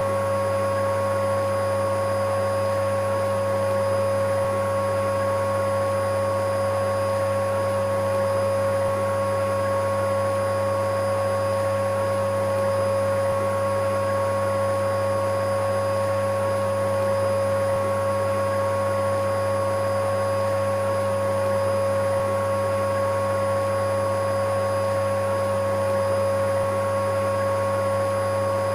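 Electric vacuum cleaner running steadily: an even rushing whoosh with a constant high motor whine that never changes.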